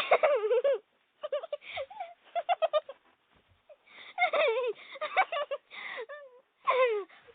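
Laughter sound effects: several separate high-pitched laughs in short bursts, some a quick run of ha-ha giggles, with brief pauses between the clips.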